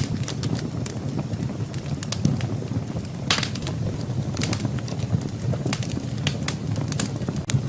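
Firewood burning in a fireplace, crackling and popping in irregular sharp snaps over a steady low rumble, with a quick cluster of louder pops about three seconds in.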